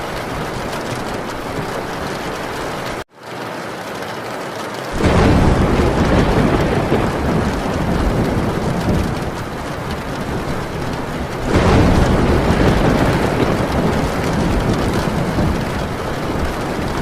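Heavy rain drumming steadily on a metal tin roof, with two long rolls of thunder, the first starting about five seconds in and the second near twelve seconds. The sound drops out abruptly for a moment about three seconds in.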